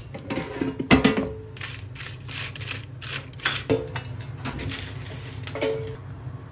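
Kitchen handling sounds: a few sharp clinks of cookware or dishes that ring briefly, with rustling in between, over a steady low hum.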